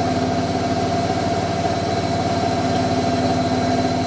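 Hoover Electron 1100 washing machine running, its motor giving a steady hum with a rapid low pulsing.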